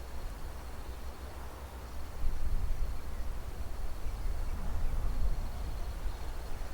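Wind buffeting the microphone: a gusty low rumble that grows stronger about two seconds in. A faint, steady high trill runs underneath.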